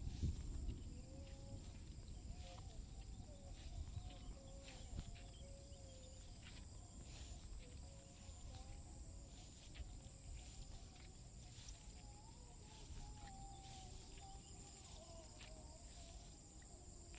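Faint steady high-pitched drone of insects, with a second, pulsing insect call joining about two-thirds of the way through. Faint wavering lower calls and scattered light clicks sit under it.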